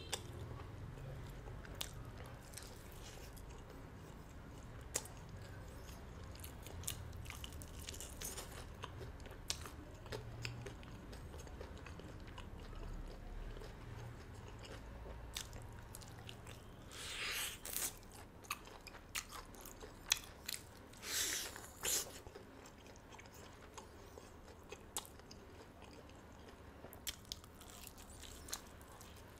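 Close-miked chewing and biting on a crispy-skinned fried chicken drumstick, with scattered small crunchy clicks. A few louder crunching bites come about 17 and 21 seconds in.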